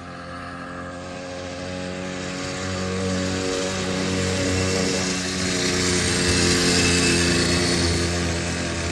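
A 100cc two-stroke bicycle engine on a home-built motorcycle, running steadily. It grows louder to a peak about seven seconds in, then eases off near the end.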